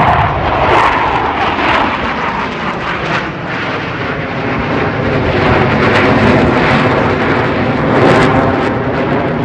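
Blue Angels F/A-18 Super Hornet jets flying past: loud, steady jet engine noise.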